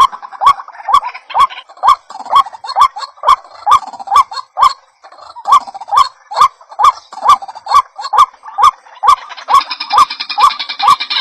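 White-breasted waterhen (ruak-ruak) call played as a bird-trapping lure, a short rising note repeated about twice a second with sharp clicky edges. From about three-quarters of the way through, a higher hissing chatter joins it.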